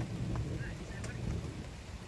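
Rain falling on a small camping trailer, with a low rumble of distant thunder swelling through the first second or so.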